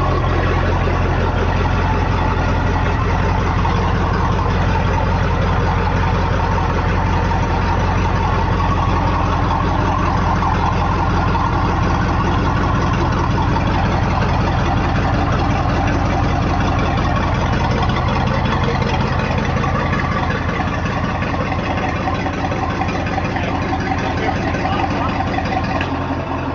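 Boat engine idling steadily through a newly fitted through-hull exhaust, a deep, even idle with no revving.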